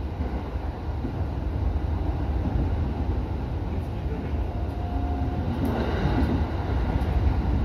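Electric commuter train running along the track, heard from the driver's cab: a steady low rumble of wheels and running gear, with a brief higher tone about five seconds in.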